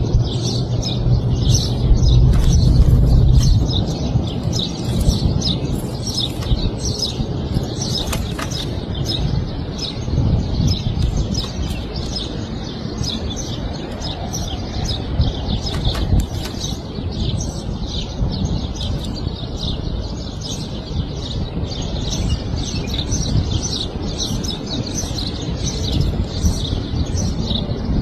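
Small birds chirping in rapid, overlapping short high notes, with many calls in quick succession, over a steady low rumble that swells for a moment about two to three seconds in.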